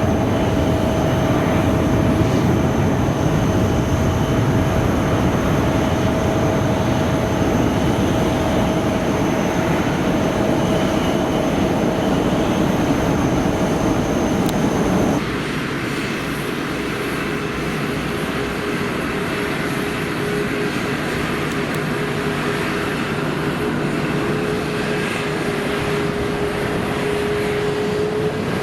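Jet airliner engines, loud and steady, with a high whine over the noise. About halfway through, the sound switches suddenly to a quieter jet engine with a lower steady whine.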